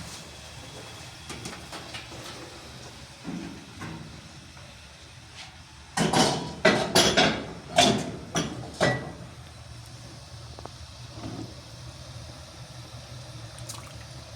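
A cluster of six or seven loud knocks and scrapes, handled objects or a door, between about six and nine seconds in, over a low steady hum.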